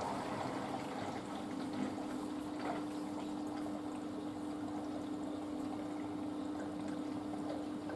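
Panasonic washing machine on its wool cycle moving water through the drum: a steady hum runs under the sound of rushing, pouring water and cuts off suddenly near the end.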